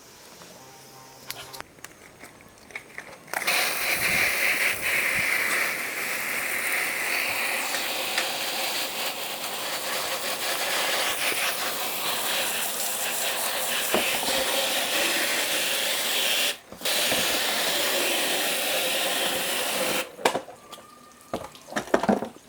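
A strong jet of water spraying steadily for about sixteen seconds, starting about three seconds in, cutting out for an instant near the end and stopping shortly before some knocks. It is consistent with parts of a disassembled washing machine being rinsed down.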